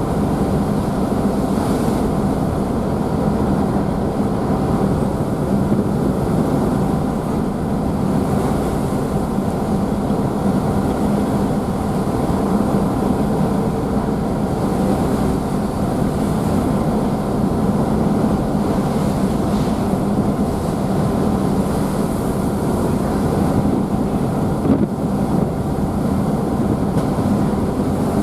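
Car ferry's engines running steadily with a constant hum, over the rush of the wake and spray churning behind the stern.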